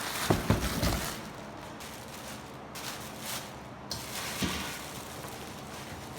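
Handling noises: a few short, low knocks in the first second and another about four and a half seconds in, with rustling hiss between.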